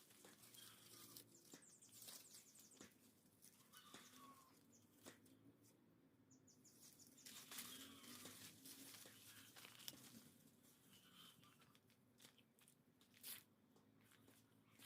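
Faint crunching and crackling of dry leaves and twigs being trodden or pulled through, in scattered sharp clicks. Twice a short series of rapid high ticks sounds, about a second in and again past the middle.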